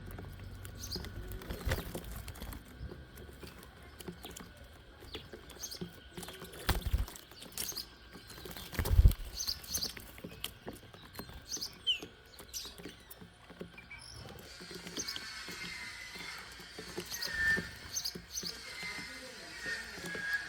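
Small birds feeding at a bird table: a steady patter of pecks, hops and scratches on the feeder, with two dull thumps in the first half. Brief chirps come in the second half.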